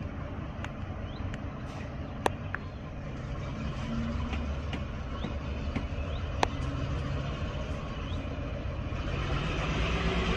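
Diesel engine running steadily as railway coaches are shunted slowly toward the platform, the rumble growing louder near the end as they close in. Two sharp metallic clicks, about four seconds apart, stand out.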